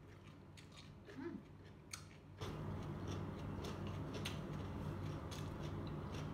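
Close-miked chewing of crunchy raw vegetables such as cucumber: scattered crisp crunches. A steady low hum sets in about two and a half seconds in.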